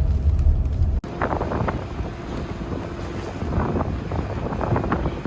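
Wind on the microphone over the steady rumble of a car ferry under way. A low rumble before it stops at a sudden cut about a second in.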